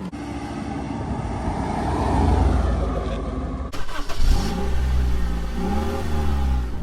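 Car engine noise: a steady low rumble, then, after a sudden break, an engine revving up and back down twice.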